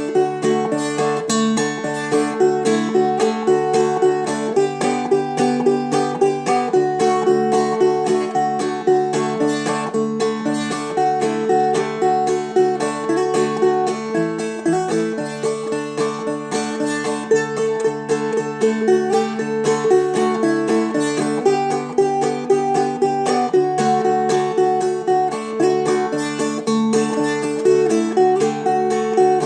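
Seagull Merlin, a small four-string dulcimer-style instrument, played in two-finger clawhammer style: quick picked melody notes over steady ringing drone strings.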